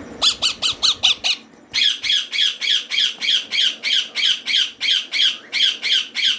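Green ringneck parrot chicks giving rhythmic begging squawks at feeding time: a quick run of about six calls, a short break, then a steady string of calls about three a second.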